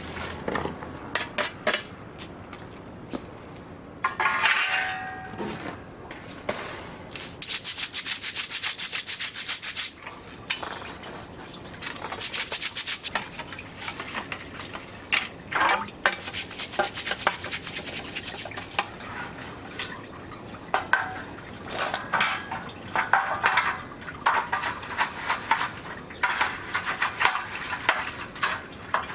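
Metal utensils and cookware clinking, scraping and rattling, with a run of rapid, even scraping strokes a few seconds in.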